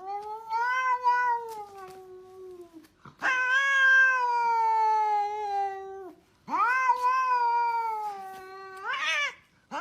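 A cat meowing in long, drawn-out yowls: three in a row, each about three seconds long and sliding slightly down in pitch, with a fourth starting at the very end.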